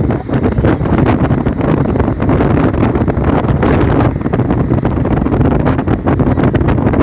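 Loud wind buffeting the microphone, a dense low rumble with frequent crackles.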